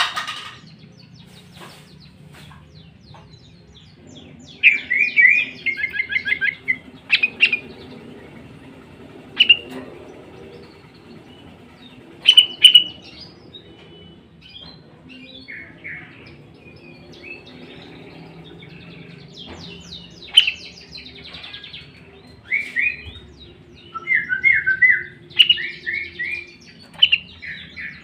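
Sooty-headed bulbul calling: short runs of quick repeated chirps broken up by single loud calls, with gaps between them.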